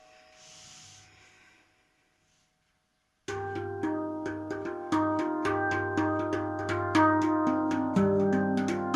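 Luna Nammu Silvermoon non-steel handpan. Faint ringing notes fade to a brief silence, then a little over three seconds in it is struck in a quick, rhythmic run of notes that ring on over one another.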